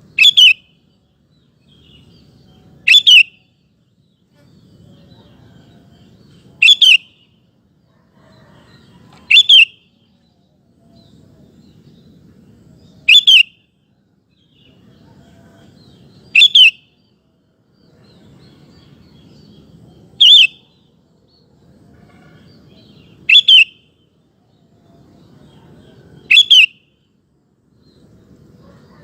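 Sooty-headed bulbul (kutilang) calling a short two-note phrase, repeated about every three seconds.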